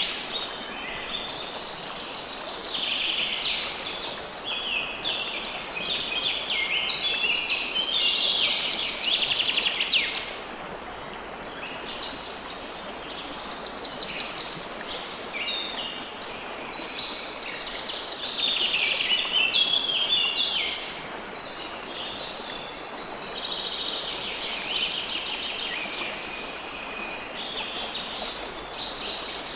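Songbirds singing in a run of quick trilled phrases, each a couple of seconds long, over the steady rush of flowing river water.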